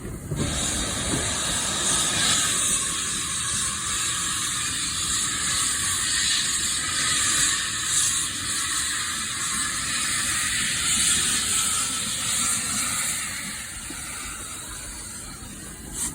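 Steam locomotive hissing steadily, a high hiss of escaping steam that gets quieter in the last few seconds.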